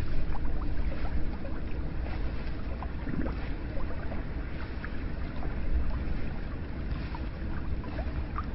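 Hot spring water running into a bath: a steady low rush with many small drips and splashes scattered through it.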